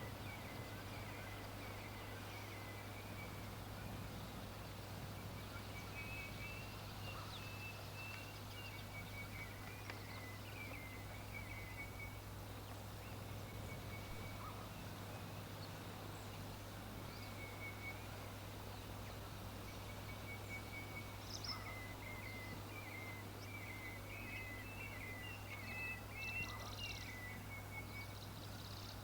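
Birds calling in repeated runs of short, quick chattering notes over a steady low hum, with a few higher chirps near the end.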